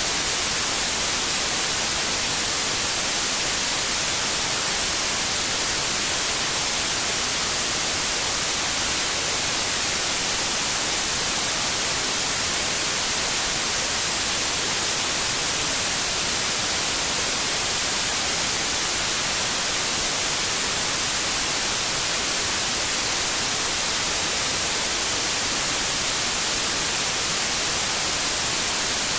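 Steady, unchanging white noise: an even hiss weighted toward the high end, without breaks or changes.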